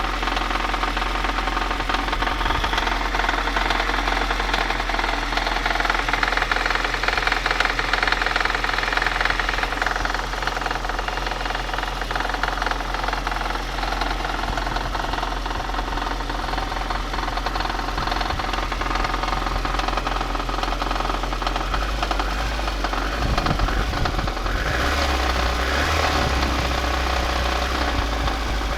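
VAZ-2110 eight-valve inline-four engine running with a knock from inside the engine. The note shifts about three quarters of the way through.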